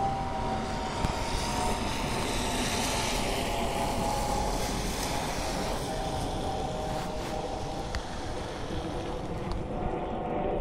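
Steady hiss of rain and traffic on a wet street, swelling for a couple of seconds about two seconds in, with a faint wavering hum underneath.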